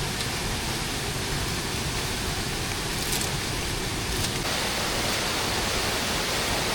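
Steady rain falling: an even hiss, with a few faint clicks in the middle of it.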